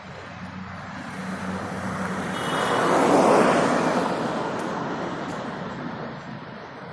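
A road vehicle passing close by in traffic: its tyre and engine noise swells to a peak about three seconds in and then fades away.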